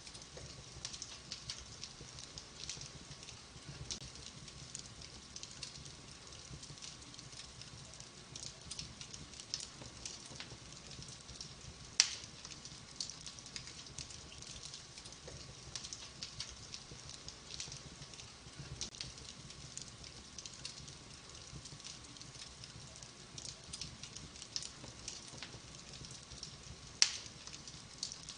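Wood fire in a fireplace crackling steadily with many small ticks and snaps, and two louder sharp pops, one about halfway through and one near the end.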